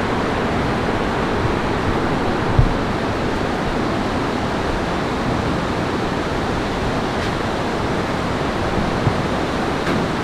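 Heavy rain falling steadily in a dense, even rush of water noise. A short low thump comes about two and a half seconds in.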